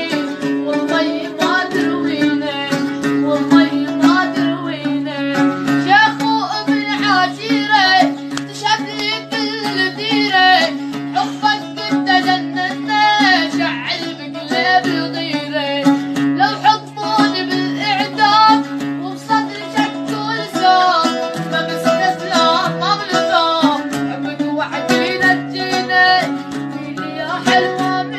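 A young man sings an Arabic folk song in an ornamented, wavering melody, over a plucked-string accompaniment with steady held bass tones. The held tones shift to a new pitch about twenty seconds in.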